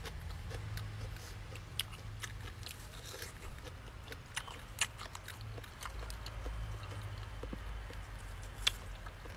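Close-miked chewing of a person eating with the hands, with a few short sharp mouth clicks scattered through and a steady low hum underneath.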